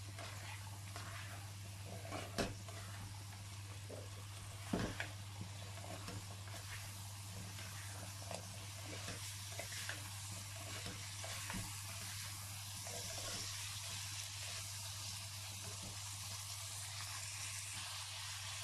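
Chickpeas, fried onions and spices sizzling in oil in a non-stick wok while a spatula stirs and scrapes through them, with a couple of sharp knocks of the spatula on the pan in the first five seconds. The stirring thins out in the second half and the steady sizzle goes on.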